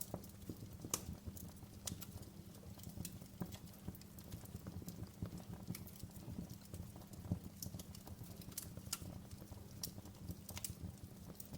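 Wood fire burning in a fireplace: a steady low rumble of the flames under irregular sharp crackles and pops, a few louder snaps among them.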